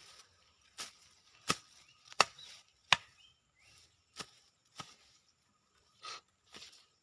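A hand tool chopping at the ground and roots of a shrub, dug out as bonsai stock. Four sharp strikes come about 0.7 s apart in the first three seconds, followed by a few lighter strikes.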